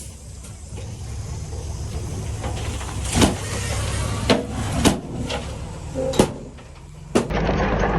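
Heavy diesel earthmoving machinery running steadily, with five sharp clanks spread through the middle and end. Near the end the sound changes abruptly to a louder engine rumble.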